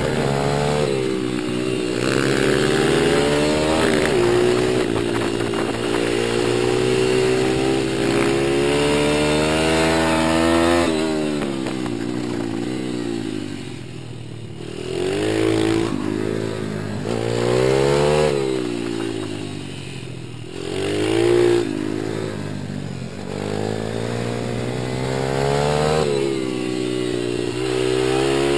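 Small single-cylinder four-stroke pit bike engine revving up and down repeatedly under changing throttle, with pitch rising and falling throughout and easing off briefly a couple of times.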